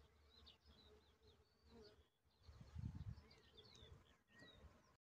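Faint birdsong: scattered short chirps and twitters from small songbirds, with a brief low rumble about halfway through.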